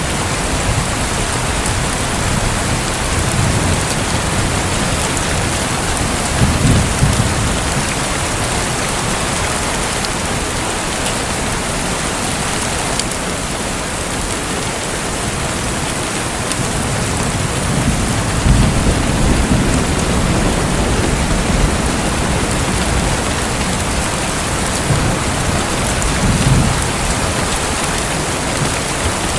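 Steady rain falling, an even hiss, with low rumbles of distant thunder swelling three times.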